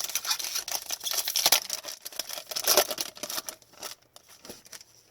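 Hockey trading-card pack being handled: foil wrapper crinkling and tearing, with cards rustling and sliding against each other in a run of papery scraping and clicks for about four seconds before it fades.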